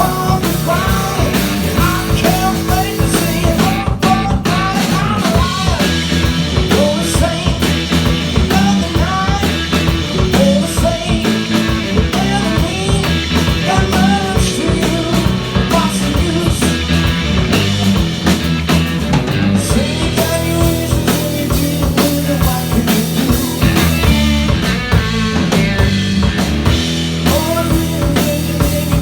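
Live rock band playing: drum kit, bass and electric guitar, with a bending lead melody and some singing.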